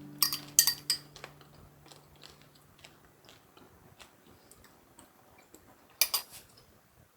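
A few sharp clicks and light clatters of small objects being handled: a quick cluster in the first second and another about six seconds in, with faint ticks between. The last notes of background music die away in the first couple of seconds.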